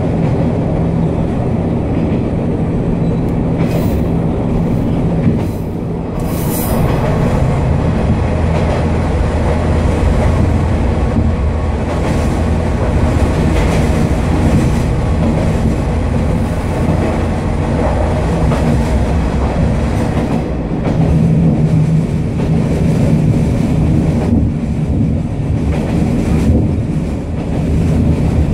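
Noto Railway NT200 diesel railcar running along the line, heard from inside the car: a steady low rumble of engine and running gear, with wheels clicking over rail joints now and then. Partway through it runs through a tunnel.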